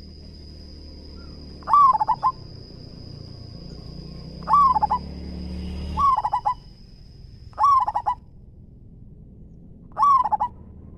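Zebra dove cooing: five short phrases a couple of seconds apart, each a loud opening note followed by a quick stutter of softer notes. A steady high thin whine runs underneath and stops about eight seconds in.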